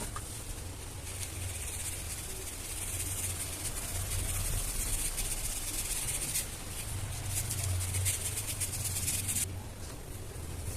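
Dry, gritty red dirt shapes crumbling and being crushed: a dense, continuous crunchy crackle of fine grains, thinning out suddenly near the end. A low steady hum runs underneath.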